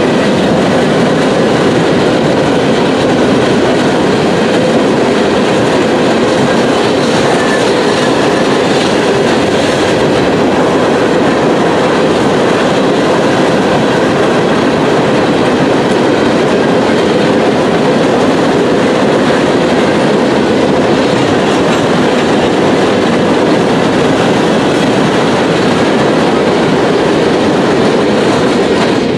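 Freight train's hopper cars rolling past on the near track: a loud, steady rumble of steel wheels on rail.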